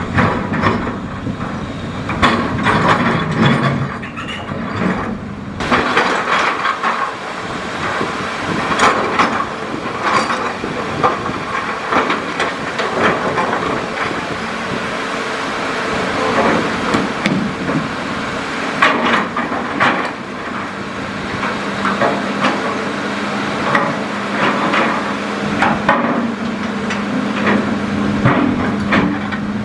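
Hitachi Zaxis hydraulic excavator working, its diesel engine running steadily under repeated knocks and clatter of stone and gravel against the steel bucket.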